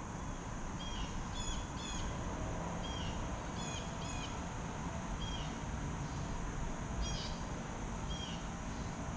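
A bird calling in short, high chirps, repeated irregularly every half second to a second or so, over a steady outdoor background hiss.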